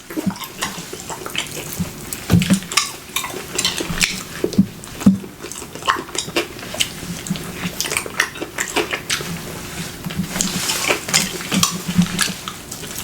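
Close-up wet eating sounds: chewing and smacking on saucy chicken wings coated in Alfredo sauce and bacon, with many irregular sticky clicks and crackles.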